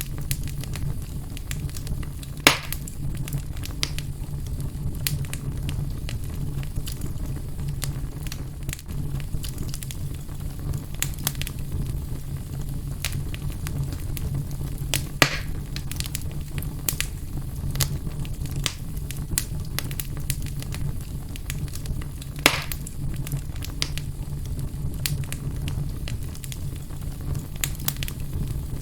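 Fire burning in a fireplace: a steady low rumble of flames with scattered small crackles and three louder pops spread through.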